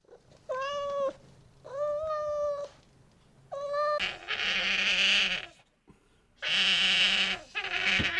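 Animal calls: three short, clear, pitched cat-like calls, then from about four seconds in, longer and rougher calls.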